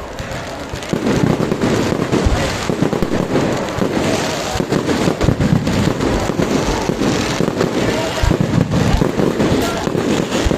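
Huge wood bonfire burning with a dense, continuous crackling and popping, with a few louder pops.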